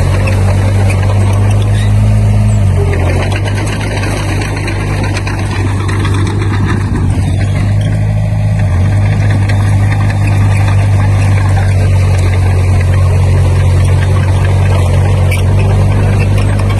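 Heavy-equipment diesel engine running steadily with a low hum. Its pitch shifts slightly about three seconds in.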